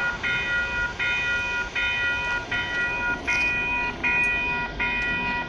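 Railroad grade-crossing warning bell ringing in a steady repeating cycle, about 1.3 rings a second: the crossing signals are active as a commuter train approaches.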